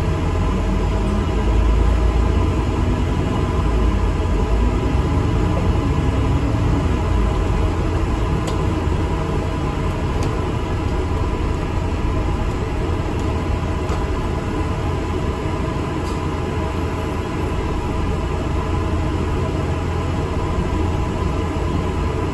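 Interior of an ADL Enviro 400 MMC double-decker bus on the move: a steady low rumble of engine and road noise with a constant drivetrain hum, the engine pitch climbing and shifting in the first several seconds, and a few faint rattles.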